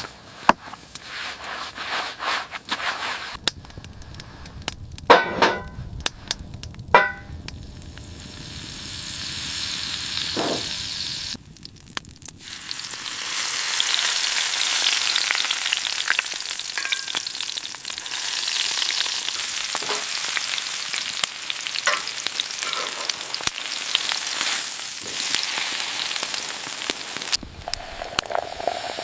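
Steak sizzling in a hot pan. In the first few seconds there are knocks and two ringing metal clinks from utensils against the pan; after a brief lull the sizzle runs on steadily.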